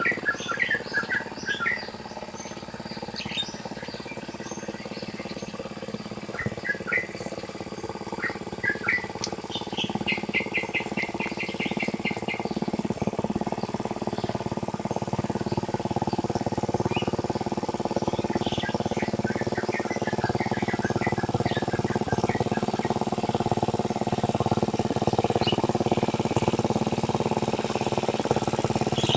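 Small engine of a hand tractor ploughing a rice paddy, running steadily and growing gradually louder as it comes closer. Small birds chirp and trill over it, more often in the first half.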